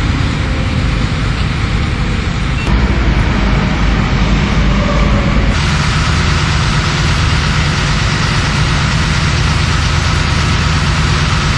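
Vehicle engines running with steady road noise, changing abruptly twice, about two and a half and five and a half seconds in.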